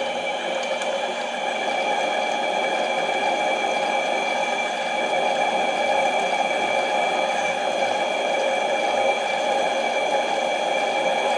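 Harbor Freight mini lathe running steadily, its motor and gearing giving an even whine with several fixed tones over a hum.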